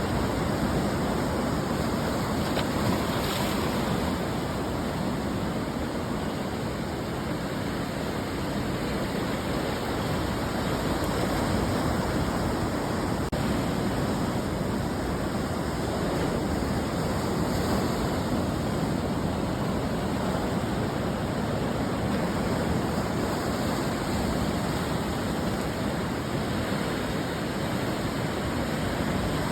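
Ocean surf: waves breaking and washing on a beach as a continuous dense rush, swelling and easing slightly over several seconds.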